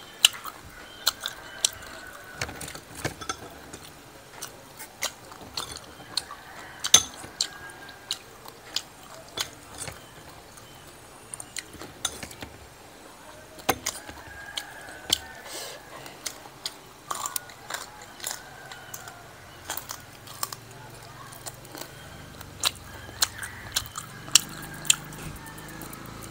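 Close-up chewing of crispy fried sparrow, with sharp, irregular crunches about one or two a second.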